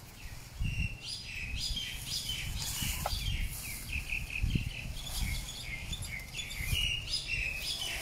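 Small birds chirping in quick, repeated short notes, with a few low dull thumps underneath.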